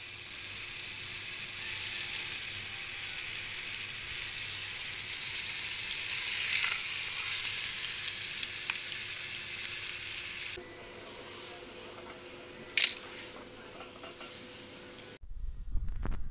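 Food frying in hot oil in a pan, a steady sizzle that drops to a quieter sizzle about ten and a half seconds in. A single short, sharp sound about thirteen seconds in stands out as the loudest moment, and near the end the sizzle gives way to a low rumble.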